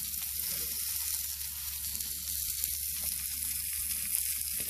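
Pork belly sizzling on a grill over charcoal: a steady high hiss with fine crackles of spitting fat.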